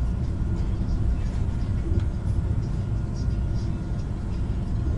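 Steady low rumble of the Sapsan (Siemens Velaro RUS) high-speed electric train running at speed, heard inside the passenger car.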